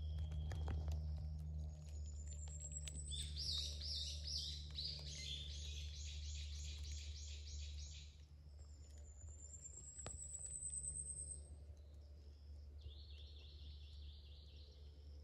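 Wild birds singing: a thin, high rising whistle twice, a run of rapidly repeated notes lasting about five seconds, and a shorter run of notes near the end, over a steady low rumble.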